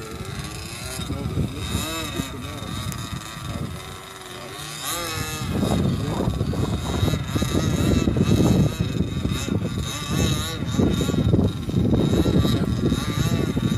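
Gas-powered Primo Laser RC airplane's engine buzzing in flight, its pitch rising and falling as the plane passes and changes throttle. From about five seconds in, a loud, rough rumble takes over and runs under the engine.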